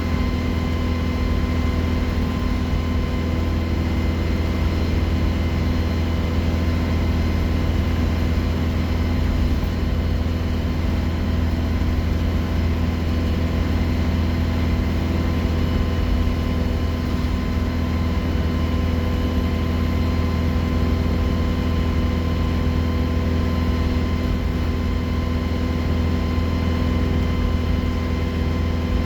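Diesel engine of an Alexander Dennis Enviro 200 single-deck bus running steadily, a constant low drone with faint steady higher tones over it and no change in pace.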